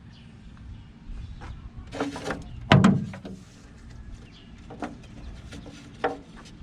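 Clicks and knocks from a fish finder's plug and transducer cable being handled and plugged in, the loudest a single thud about three seconds in.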